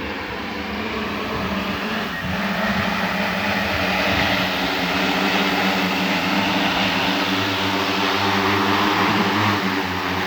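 Agricultural crop-spraying drone's rotors running as it flies in close, a steady multi-tone hum with a rushing noise that grows louder over the first couple of seconds and then holds.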